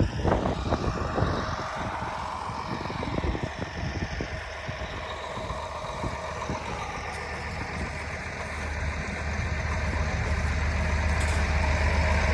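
Farm tractor engine running while it pulls a tillage implement off across the field, with a knock right at the start. The engine's low drone and overall loudness build over the last few seconds as it takes up the load.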